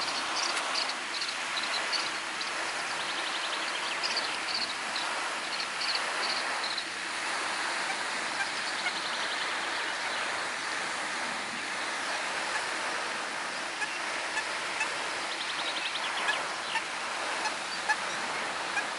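A steady rush of running water, with scattered short high chirps and brief rapid trills of birds or insects over it, most of them in the first several seconds and again near the end.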